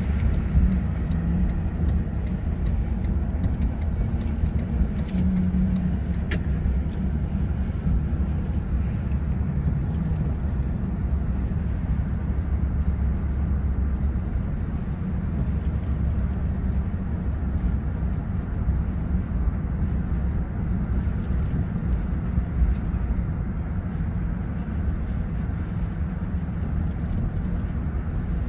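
Car driving: a steady low rumble of engine and road noise, with a couple of faint clicks.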